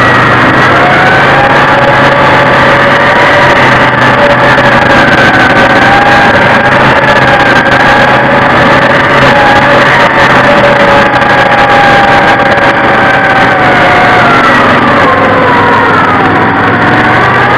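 Several vehicle engines running loudly and steadily, with whining tones that drift slowly up and down in pitch and dip and rise again near the end.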